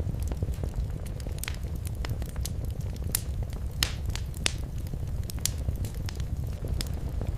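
Fireplace fire crackling: irregular sharp snaps and pops, several a second, over a steady low rumble.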